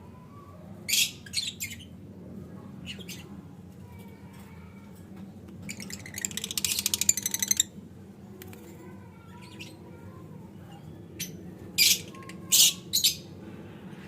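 Lovebird chicks calling: short, shrill squawks in quick clusters about a second in and again near the end, with a rapid buzzing chatter in the middle lasting about two seconds.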